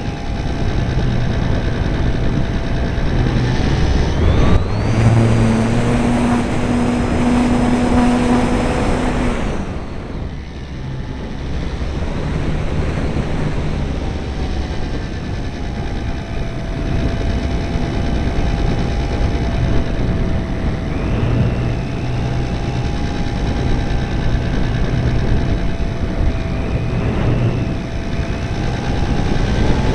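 RC airplane's motor and propeller running in flight over a steady rush of wind noise. About four seconds in the pitch climbs sharply as the throttle is opened, holds high and loud for about five seconds, then drops back to a lower, gently wavering drone.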